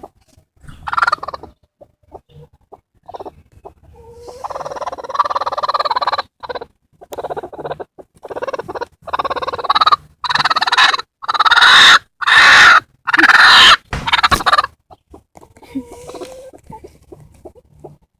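Broody bantam x bearded silkie hen making harsh, noisy defensive calls: a long call about four seconds in, then a run of loud, repeated short calls that grow louder before dying down near the end. The sound is a broody hen guarding her eggs and warning off an intruder.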